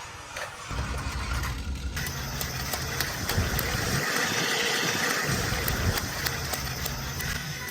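Battery-powered Plarail toy train running along plastic track: a steady small-motor hum and rattle with regular light clicks.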